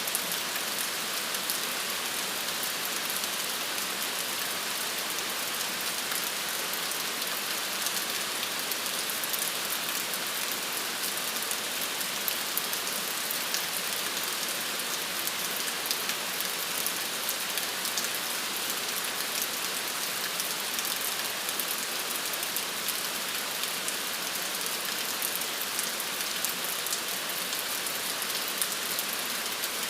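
Steady rain falling, an even hiss of rain with many small drop ticks and no breaks.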